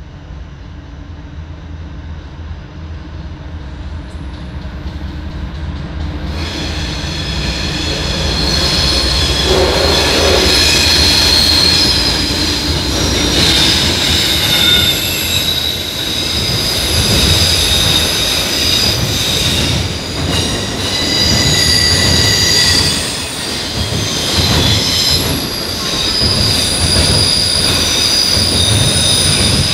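Diesel-hauled freight train approaching and crossing overhead: a low rumble builds over the first several seconds. The cars then roll past with high-pitched metallic squealing from the steel wheels on the rails, several shrill tones coming and going.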